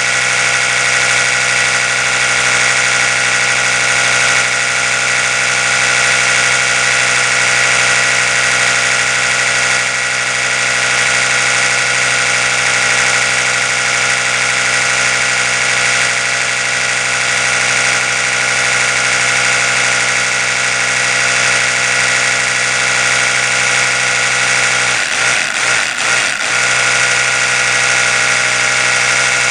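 Oral-B electric toothbrush running steadily, a continuous buzzing hum. About 25 seconds in the hum briefly wavers and dips in level, then settles again.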